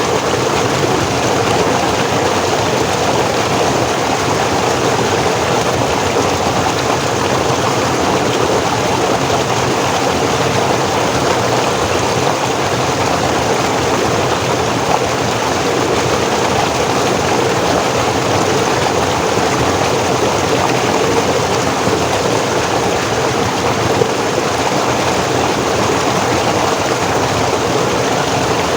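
Forest stream flowing steadily, a continuous rushing of water over rocks.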